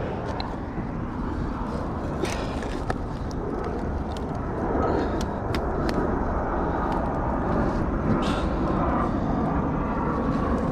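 Steady low outdoor rumble that grows slightly louder partway through, with a few sharp clicks along the way.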